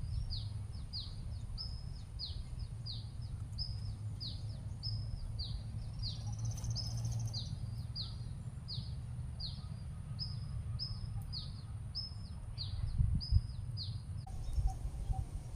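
A bird calling over and over with short, high notes that fall in pitch, about two a second, over a low rumble. A few thumps come near the end, and a lower, soft pulsing call takes over.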